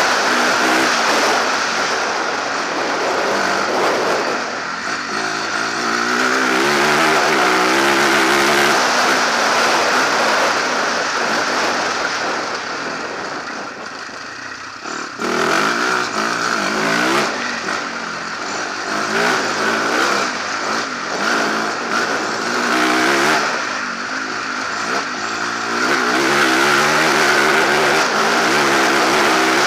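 Off-road rally motorcycle engine at speed, revs repeatedly rising and falling as the throttle is worked, with steady wind and tyre hiss. About halfway through the throttle is rolled off and the revs die away, then it snaps back on hard.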